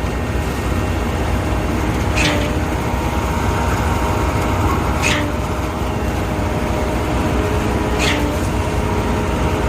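A heavy diesel engine runs steadily, likely the concrete pumper truck during the pour. A short, sharp high sound comes three times, about every three seconds.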